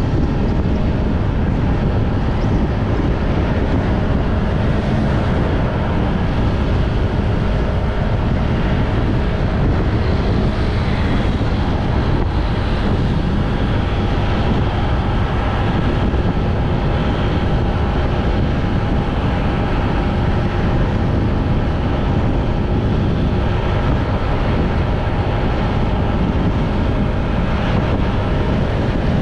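Wind rushing over the microphone of a moving motorbike, with the steady hum of its engine underneath.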